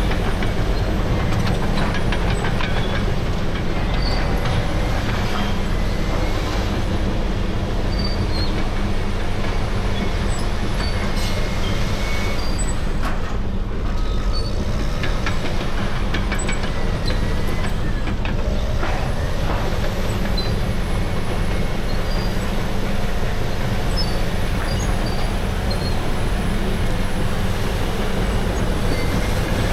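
Caterpillar D6R crawler dozer's C9 diesel running steadily while its steel tracks clank and squeal.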